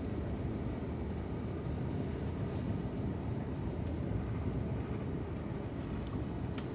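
Steady low rumble in the cabin of an Airbus A350-900 rolling on the ground after landing, with a couple of faint clicks near the end.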